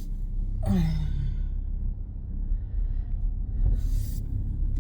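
Car engine and road rumble heard from inside the cabin, low and steady. A short vocal sound falls in pitch about a second in, and there is a breathy exhale near the end.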